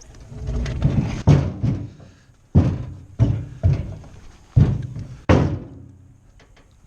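A series of heavy, irregular thuds, about seven, each sharp at the start and dying away quickly, after a swelling scrape in the first second: heavy timber being struck or handled.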